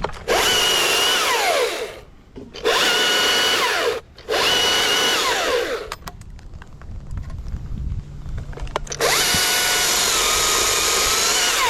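Battery-powered chainsaw run in four bursts. Each burst is a high, steady whine that winds down in pitch as the trigger is let go. The last burst is the longest, about three seconds.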